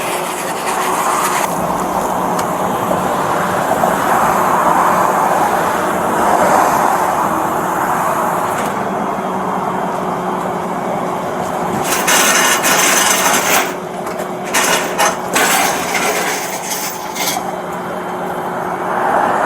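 A vehicle engine running with a steady hum over road traffic noise that swells and fades. From about twelve seconds in, several seconds of loud rustling and knocks close to the microphone.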